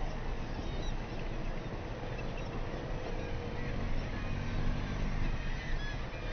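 Gulls calling from the nesting cliff in short, faint cries, over a steady low rumble.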